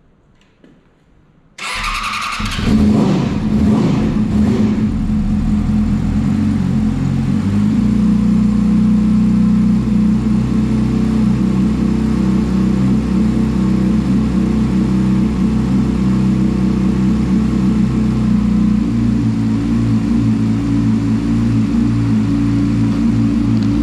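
Yamaha YZF-R6 inline-four motorcycle engine starting about two seconds in after a near-silent pause, unsettled for a few seconds, then idling steadily with small shifts in its note. The owner finds this engine hard to start.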